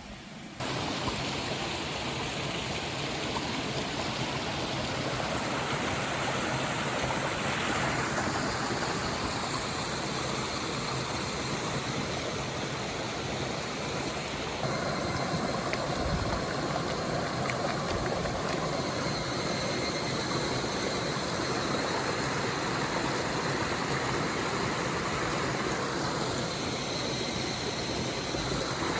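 Running water of a stream, a steady rushing that shifts in tone abruptly twice, as between shots.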